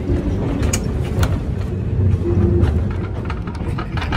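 Passenger train running along the track, a steady low rumble with a few sharp clacks from the wheels and rails.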